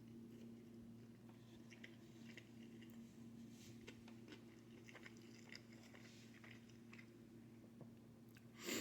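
A person chewing food quietly with faint wet mouth clicks, over a steady low hum. A brief louder noisy sound comes near the end.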